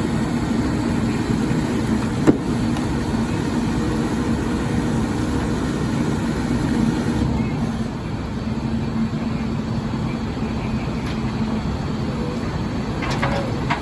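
Leach rear-loader garbage truck running steadily, its diesel engine and hydraulic packer making a hum that eases a little about eight seconds in. A sharp knock comes about two seconds in, and a short squeal near the end.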